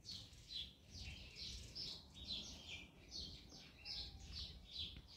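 Small birds chirping, faint: a rapid run of short, high chirps, a few a second, each dipping slightly in pitch.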